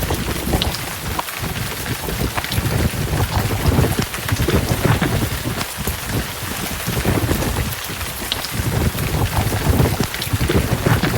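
Heavy rain pouring down, dense and steady, with low thunder rumbling underneath that swells and fades several times.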